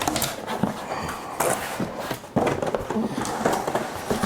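Cardboard packaging being opened and handled: rustling and scraping with a string of irregular knocks and taps.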